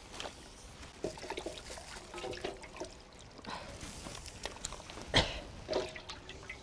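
Liquid sloshing and trickling in a large cast-iron cauldron (gamasot) of rib soup, with scattered knocks and clinks; the loudest is a sharp knock a little after five seconds in.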